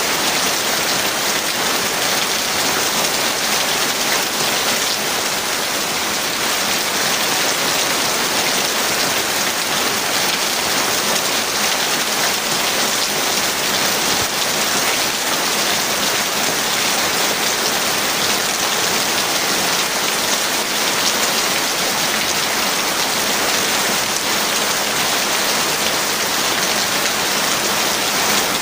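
Heavy rain falling steadily: a dense, even hiss with no change in strength.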